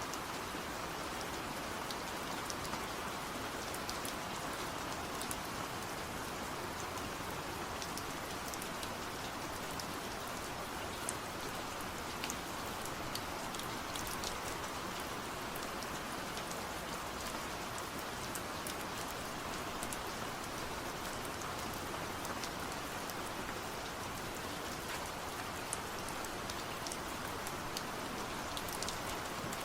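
Steady rain falling, with scattered drops ticking sharply against a surface.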